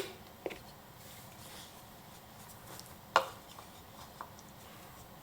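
A sharp knock about three seconds in, a lighter knock near the start and a few small taps: wooden handling sounds as the freshly turned green-wood bowl and tools are handled.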